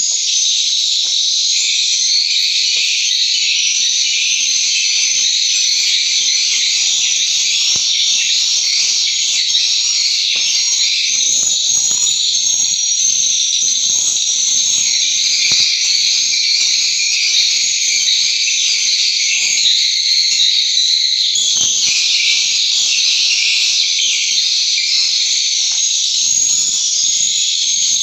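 Swiftlet calls: a dense, steady, high-pitched twittering of many overlapping chirps.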